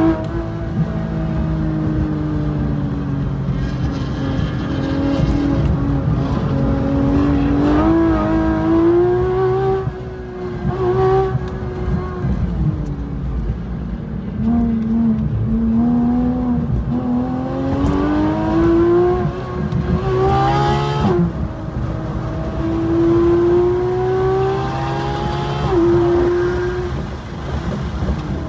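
Porsche 911 GT3 RS's naturally aspirated flat-six engine at racing speed, its note rising under acceleration and falling through braking and gear changes, with sudden drops in pitch at upshifts near the end. A steady rumble of road and wind noise runs underneath.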